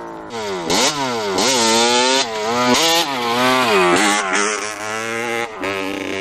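Motorcycle engine being revved in repeated throttle blips, its pitch swinging up and down several times. It then settles into a steadier, lower run for the last couple of seconds.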